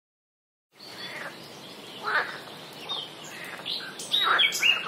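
Birds chirping over a steady outdoor background hiss, with several short calls, some sliding downward in pitch; the sound fades in after silence about three-quarters of a second in.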